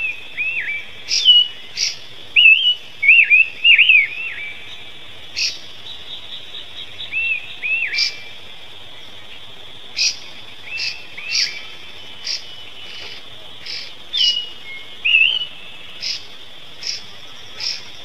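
Bird chirping: short, clear notes that rise and fall, in quick bunches of two to five, over a steady high drone. Sharp high ticks come about once a second throughout.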